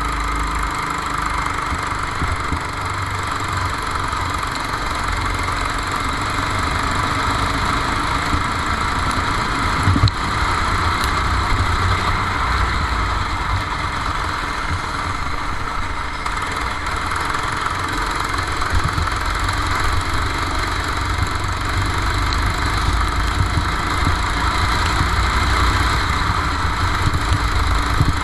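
Go-kart engine running, a steady drone heard from on board, with a single sharp knock about ten seconds in.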